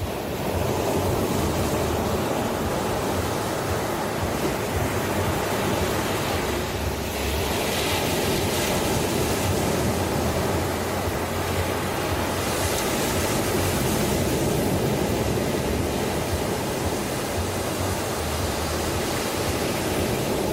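Ocean waves breaking and washing on a shore in a continuous, steady rush, with swells of louder surf wash about a third of the way in and again past the middle.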